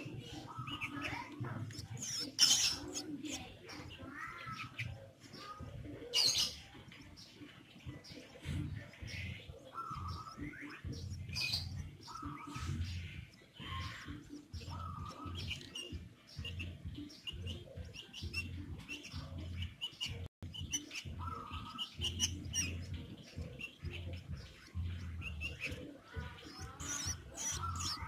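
Short bird chirps at irregular intervals over a low rumbling background, with two sharp clacks in the first few seconds.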